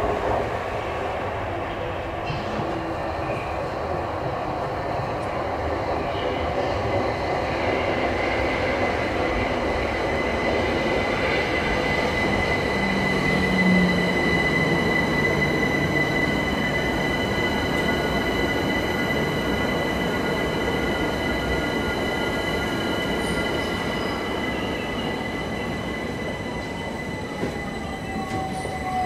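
London Overground Class 378 Capitalstar electric train running into the platform and slowing to a stop. A high, steady squeal sets in about a quarter of the way in, and near the end a whine falls in pitch as the train slows.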